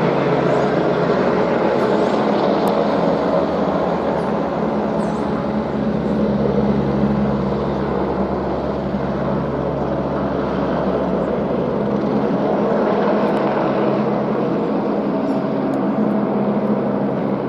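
Helicopter running close by but out of sight: a steady engine and rotor drone with a fast low beat underneath.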